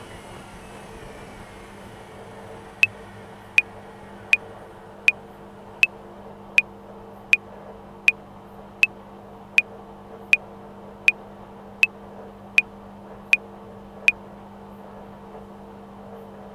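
Washing machine running with a steady hum. Over it, a metronome clicks sixteen times at 80 beats per minute, four bars of 4/4, starting about three seconds in and stopping shortly before the end.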